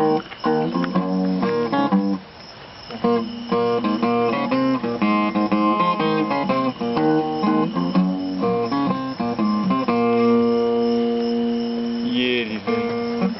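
Acoustic guitar playing plucked and strummed chords, with a short drop in level about two seconds in and a long held chord near the end.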